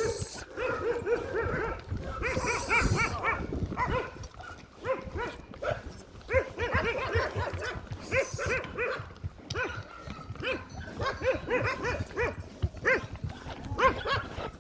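Dogs barking repeatedly in quick runs of short yaps, with pauses between the runs.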